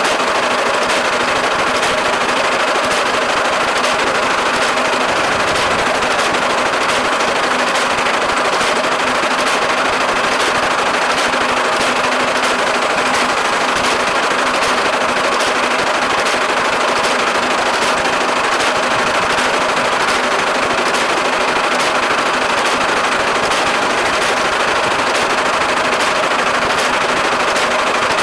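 Massey Ferguson 1840 small square baler running in the field behind a tractor. It makes a continuous mechanical clatter, with a sharp knock about twice a second from the plunger stroking.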